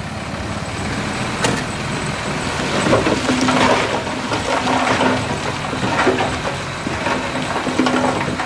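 Heavy diesel machine working, with its engine running and the clatter and crunch of soil and stone building over the first few seconds.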